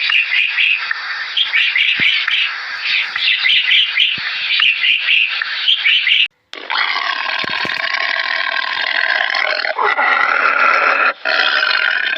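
Animal calls: about six seconds of dense, rough calling, a short break, then a long call with several steady tones, and a brief final call near the end.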